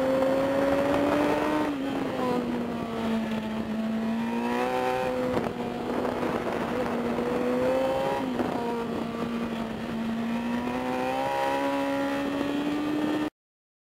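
Sport motorcycle engine heard onboard at speed, running steadily with its pitch dipping and climbing again several times through the curves, over wind noise. The sound cuts off suddenly near the end.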